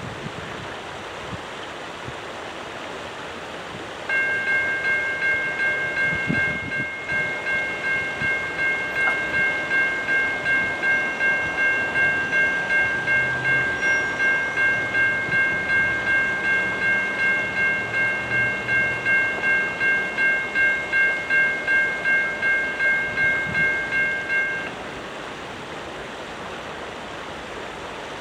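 Railroad crossing bell ringing about twice a second as the crossing warning activates, starting about four seconds in and stopping abruptly some twenty seconds later, over steady outdoor background noise.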